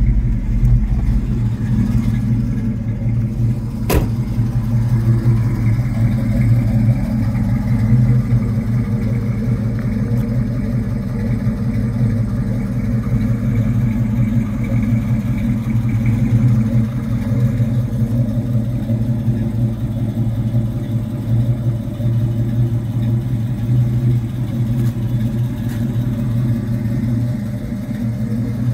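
1967 Ford Mustang GT's 390 cubic-inch big-block V8 idling steadily through its dual exhaust. There is a single sharp click about four seconds in.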